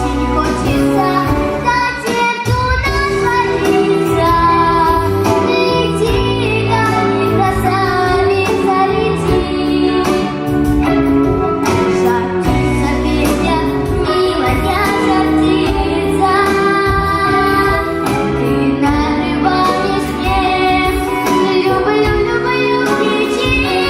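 A girl singing a song solo over continuous instrumental accompaniment.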